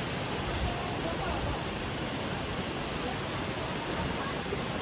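Steady rushing water, an even unbroken roar like a waterfall or fast river, with faint voices in the background.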